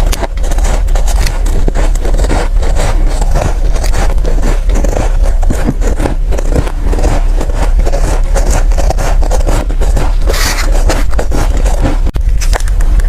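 Close-miked chewing and crunching of soft, powdery ice: a dense, continuous run of crisp crunches with a harsher burst about ten seconds in.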